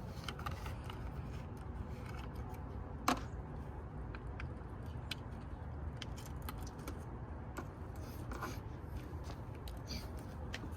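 Light clicks and taps of a plastic oil jug being handled while engine oil is poured in, over a steady low background hum, with one sharper click about three seconds in.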